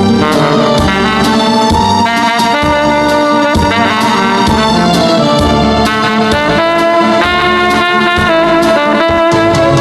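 Tenor saxophone playing the melody of a trot song in long held notes over a backing track with a steady bass beat.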